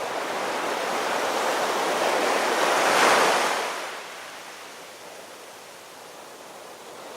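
Ocean waves: a wash of surf that swells to a peak about three seconds in, then recedes to a softer, steady hiss.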